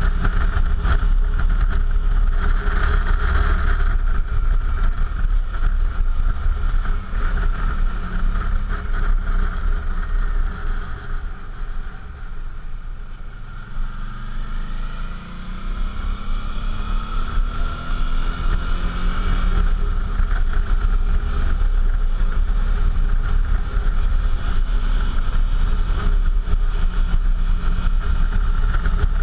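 Suzuki V-Strom motorcycle engine running on the move, with heavy wind noise on the microphone. About halfway through it eases off and goes quieter, then the engine pitch climbs as it accelerates again.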